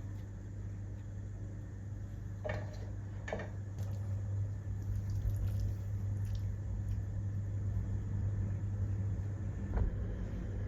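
A steady low hum, a little stronger after the first few seconds, with a few light knocks: two close together a few seconds in and one near the end.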